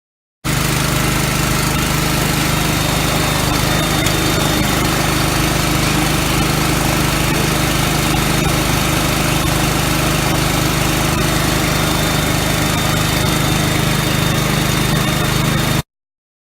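A small engine running steadily at one constant speed, starting and stopping abruptly as if cut in and out.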